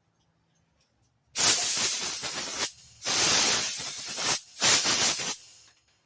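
Compressed air from an air compressor's blow gun hissing in three blasts, the first two longer and the last one short, blowing dirt and debris out of a minibike's front fork.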